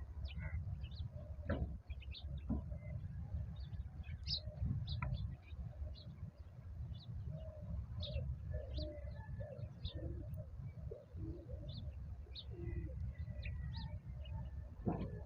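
Wild birds chirping and calling throughout: many short high chirps mixed with lower, softer calls, over a steady low rumble.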